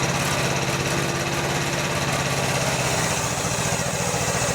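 Mini excavator's engine running steadily while its bucket is worked, with a slight change in tone about three seconds in.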